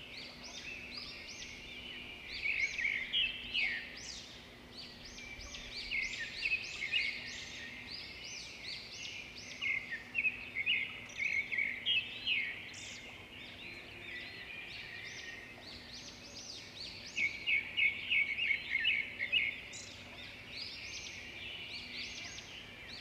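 Many songbirds singing and chirping at once in a dense chorus of short high notes and trills, with louder runs of rapid chirps coming in bouts every few seconds.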